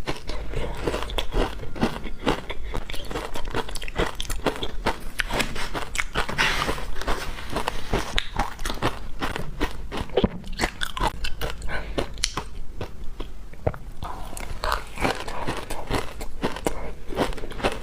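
Wet frozen matcha ice being bitten: a dense, irregular run of sharp crunching bites.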